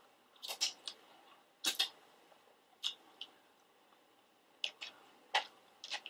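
Pizza being chewed close to the microphone: scattered short, soft mouth clicks and crunches, about a dozen, some in quick pairs.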